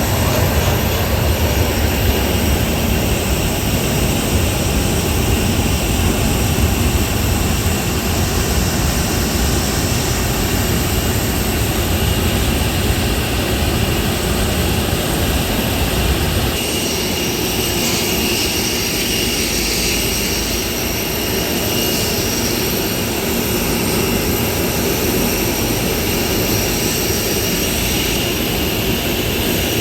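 Jet aircraft engine noise, a steady rush with a high whine running through it; the low rumble drops about halfway through.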